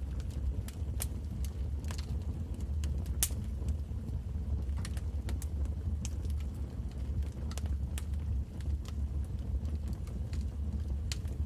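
Wood fire burning: a steady low rumble of the flames with irregular sharp crackles and pops, one louder pop about three seconds in.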